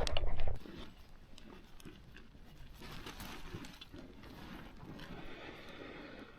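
Camping cooking gear being handled: a brief clatter of knocks, then faint rustling and light taps.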